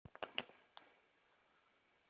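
A quick run of about five light knocks in the first second, then near silence with faint hiss.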